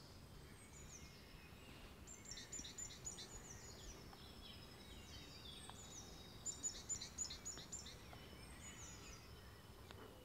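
Faint birdsong: quick runs of high chirps from small songbirds, loudest about two seconds in and again around six and a half seconds in, over a low, steady outdoor background noise.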